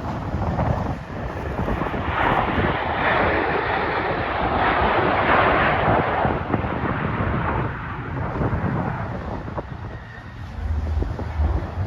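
Jet fighter engines of Thunderbirds F-16s passing overhead: a broad jet roar that swells over the first couple of seconds, is loudest around the middle and then fades, with wind buffeting the microphone near the end.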